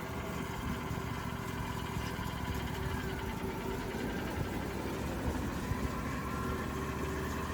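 Wood-Mizer portable band sawmill's engine running steadily.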